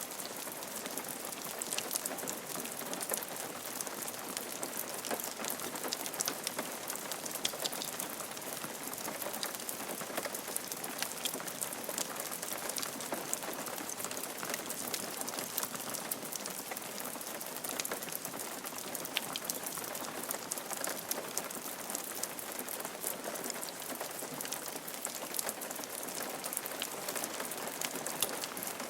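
Steady rain falling on a roof, a dense patter of individual drops tapping over an even hiss.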